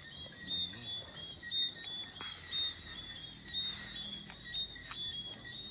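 Chorus of crickets and other insects: a steady high drone, with short high chirps repeating about twice a second.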